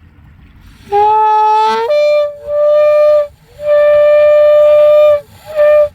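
A ram's-horn shofar being blown. The first note starts low and breaks up to a higher pitch about a second later. It is followed by two long blasts and one short blast on that higher note, with short gaps between them.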